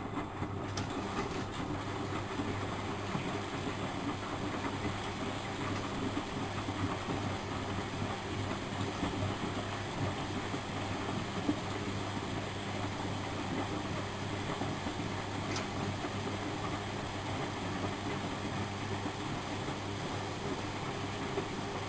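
Miele Professional WS 5105 washing machine running: a steady low hum with an even, rough mechanical noise over it.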